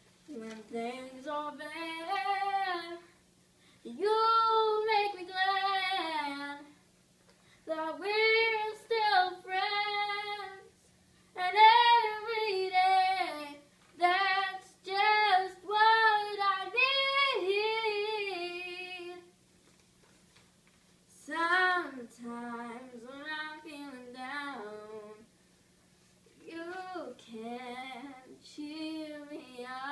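A young girl singing solo, with no instruments heard. She sings in phrases of a few seconds, with short pauses between them.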